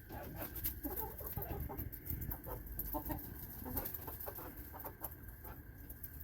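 A flock of backyard chickens clucking in many short, scattered calls while feeding on treats scattered on the ground.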